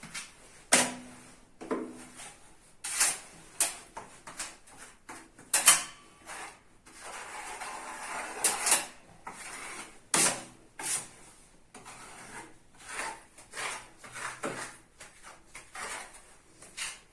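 Steel putty knives scraping filler across a wall as it is spread and levelled, in short irregular scrapes and sharp clicks of the blade, with one longer steady scrape about seven seconds in.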